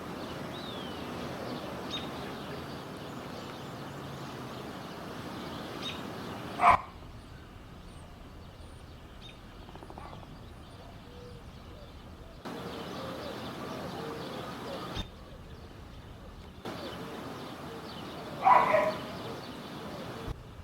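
Steady outdoor background noise with faint bird chirps, broken by two short, loud animal calls, one about seven seconds in and one near the end.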